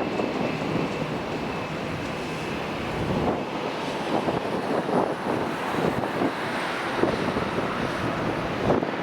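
Wind buffeting the camcorder microphone in irregular gusts over the broad, steady rumble of aircraft engines. A faint high whine fades out about two and a half seconds in.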